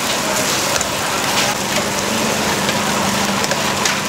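Food frying in hot oil: a steady sizzling hiss with scattered crackles and pops, over a low steady hum.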